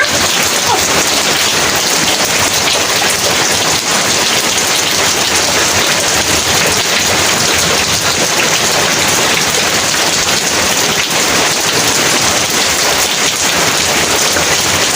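Heavy rain pouring steadily, a dense, even hiss of drops falling on surfaces.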